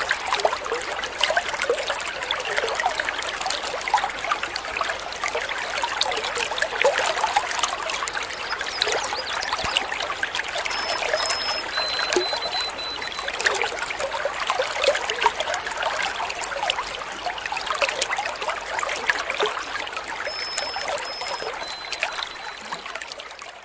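A stream of water trickling and splashing steadily. Twice, about ten seconds apart, faint short high whistled bird notes sound above it. The sound fades out in the last second.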